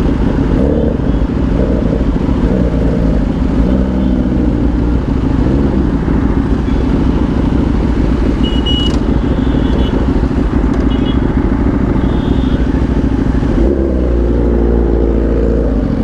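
Superbike riding on the road, its engine note rising and falling in pitch over a steady rush of wind noise on the microphone, with more pitch changes again near the end.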